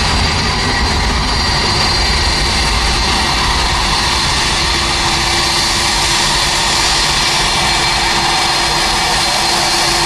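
Jet airliner engines running, a loud steady rush with high whining tones over it; a lower steady tone comes in about halfway through.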